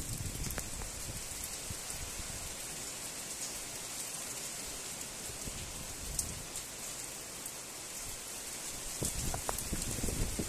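Heavy rain falling steadily, a continuous hiss of rain on surfaces, with a few low thumps near the end.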